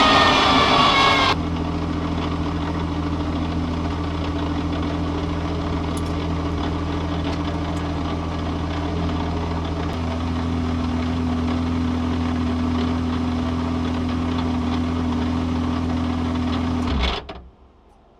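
A car engine idling steadily, after a louder first second with gliding pitches, then cutting off abruptly about a second before the end.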